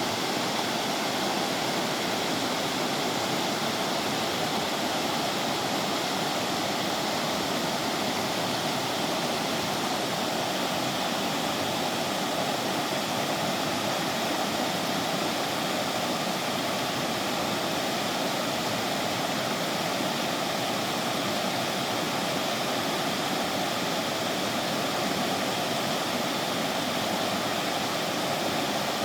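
River water rushing over rocks in a steady, unbroken wash.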